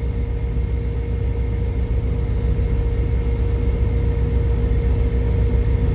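Steady low rumble of a semi truck's engine and road noise heard inside the cab while driving, with a faint steady hum above it.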